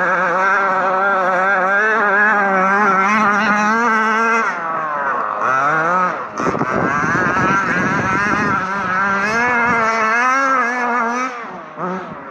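Two-stroke petrol engine of a large-scale RC truck running at high revs, its pitch wavering as the throttle is worked. About five seconds in the revs drop and climb again, and near the end they fall off briefly.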